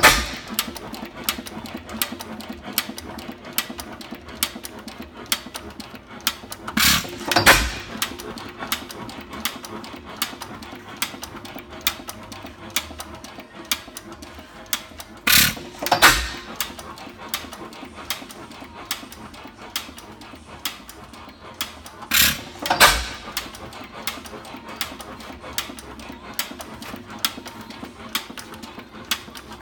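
Fairbanks Morse 4 hp Type H hit-and-miss engine running: it fires a pair of sharp exhaust beats about every seven seconds and coasts through its misses in between, with a fast light clicking. The long coasting between firings is typical of a hit-and-miss engine running with no load.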